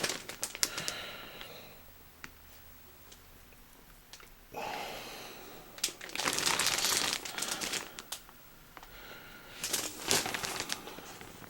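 Packaging crinkling and rustling in several bursts with quieter gaps as a pair of cargo pants is handled and unwrapped.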